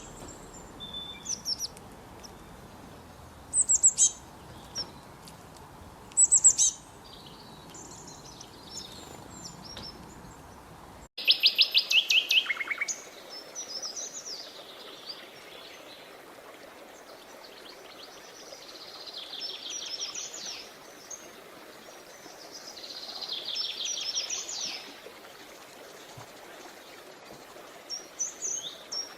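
Several songbirds chirping and trilling, with quick rapid trills about eleven seconds in and again near 19 and 24 seconds, over the steady murmur of a creek. The background changes abruptly about eleven seconds in, as at a splice in the recording.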